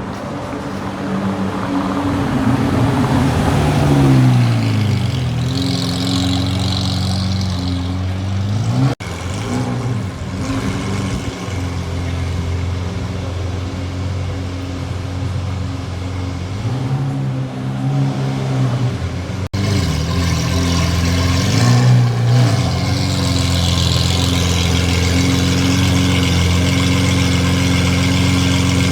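Lamborghini Aventador V12 with a Fi aftermarket exhaust running at low speed. Its revs fall early on, it gives a few short rises in revs, and it settles into a steady idle near the end.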